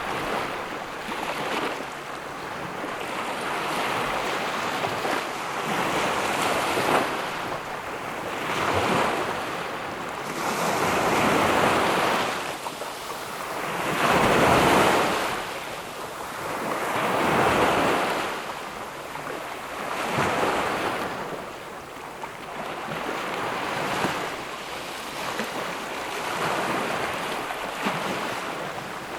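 Ocean waves breaking and washing up on a beach, the surf swelling and fading about every three seconds, with the loudest surge about halfway through.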